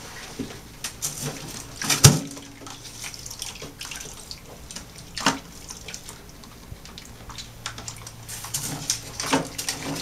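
Water splashing and sloshing in a sink as an oil-soaked small bird is washed in soapy water, with several sharp splashes, the loudest about two seconds in.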